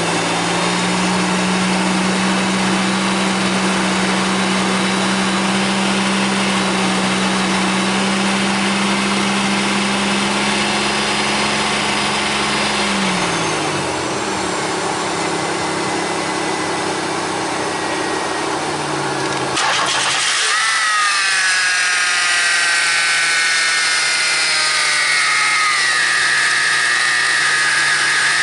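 Car engine being started and running after sitting with a flat battery: a steady low hum that drops in pitch about 13 seconds in, then a sudden change about 20 seconds in to a higher whine with several tones gliding downward.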